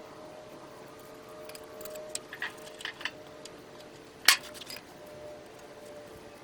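Scattered light metallic clicks and clinks, with one sharp clank a little past four seconds in, over a faint steady hum.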